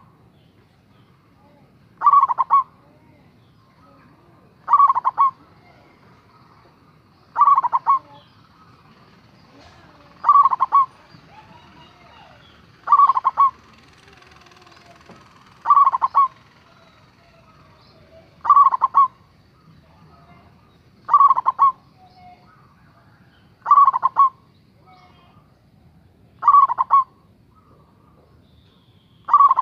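Local Javanese zebra dove (perkutut) cooing: a short, rolling coo repeated at a steady pace, about once every two and a half to three seconds, some eleven times.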